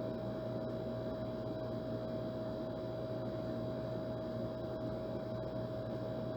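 Old air conditioner running steadily: an even rushing noise with a constant humming tone over it.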